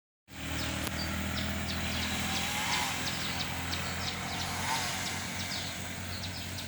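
A steady low motor hum, with many short, quick bird chirps over it and two brief rising-and-falling calls in the middle.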